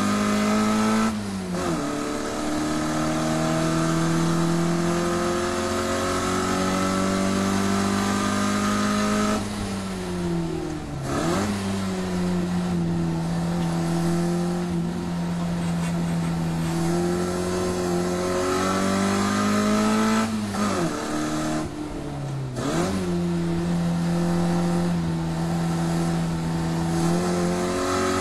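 Classic Mini Cooper's 1380 cc four-cylinder engine on a Weber 45 carburettor, driven hard on a race circuit: the engine note climbs slowly under load, then drops sharply and picks up again three times, about a second in, around ten seconds and around twenty-one seconds.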